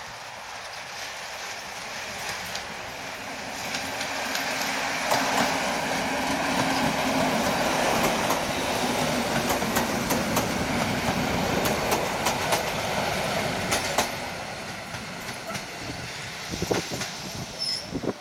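EN57 electric multiple unit passing on a single track: its rumble grows as it approaches, the wheels clatter over the rail joints as it goes by, and the sound fades as it moves away near the end.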